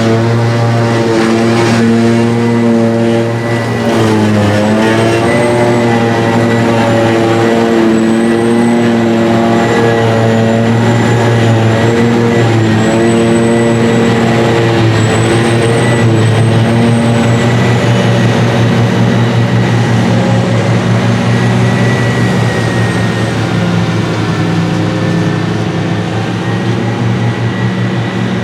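Heavy diesel farm machinery running steadily under load during grass silage harvesting, its engine note dipping briefly and recovering twice, with a faint high whine rising and falling above it in the middle.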